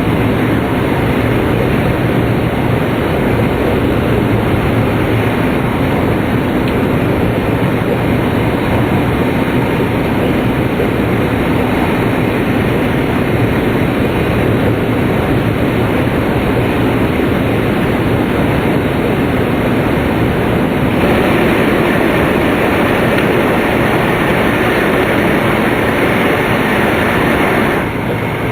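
Inside a Tohoku Shinkansen Hayate (E2 series) passenger car at speed: a steady rushing rumble of wheels, rails and air. About three-quarters of the way through it becomes louder and brighter, and it dips briefly near the end.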